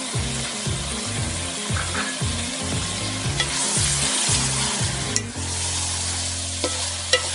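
Chicken pieces, tomato slices and green chillies sizzling in oil in an aluminium pot while being stirred. A steady low hum comes in about five seconds in.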